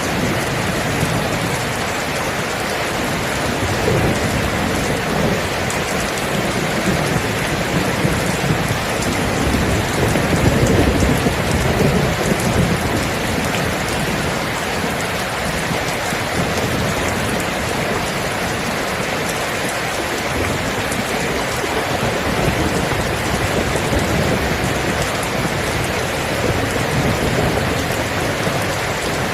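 Steady rain with low rolling thunder, the thunder swelling about four seconds in and again around ten to twelve seconds in.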